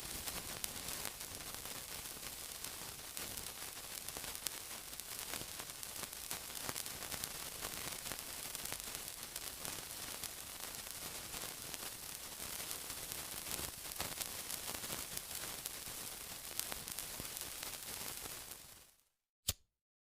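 Sizzling: a dense, steady hiss thick with tiny crackles. It fades out about a second before the end, and a single sharp click follows in the silence.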